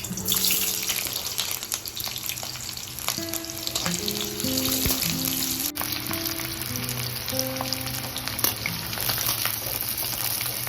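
Food frying in hot oil in a pan, a steady sizzle with occasional stirring, over soft background music.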